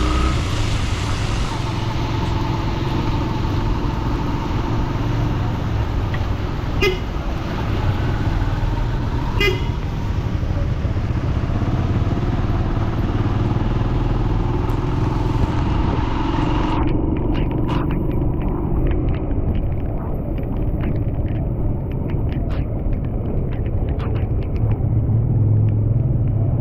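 Road traffic on a wet city street: steady vehicle engine and tyre noise, with two short horn toots about seven and nine seconds in. The high hiss drops away suddenly a little past halfway.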